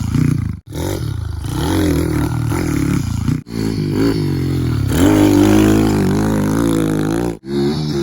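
Kawasaki KLX110 big-bore pit bike's single-cylinder four-stroke engine revving up and down as it is ridden over dirt jumps. The sound breaks off sharply three times.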